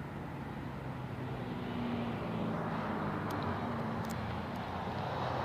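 Road traffic: a vehicle engine's low drone with tyre noise, swelling slightly from about two seconds in.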